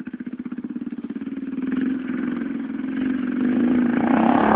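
Motocross motorcycle engine running with a fast, even pulse, growing steadily louder as the bike revs or draws closer.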